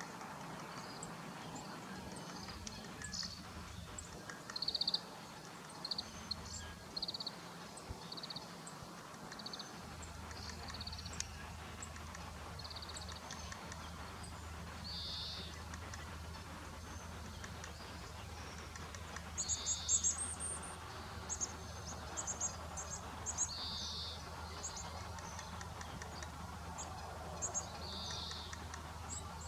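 Short, high-pitched bird calls, some single and some in quick runs of several, scattered over a faint steady background. A low steady hum sets in about a third of the way through.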